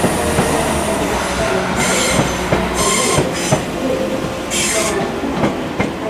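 A Northern Ireland Railways diesel multiple unit running past. Its diesel engine rumbles steadily until about halfway, the wheels squeal in three short bursts, and then the wheels click over the rail joints as the last carriage goes by.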